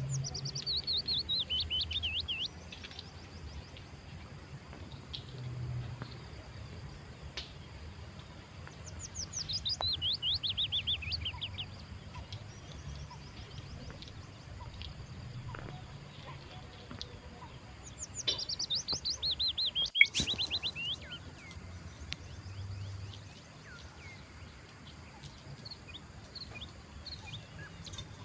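A songbird sings the same phrase three times, each a quick run of notes falling in pitch over about two and a half seconds. A single sharp click comes about twenty seconds in.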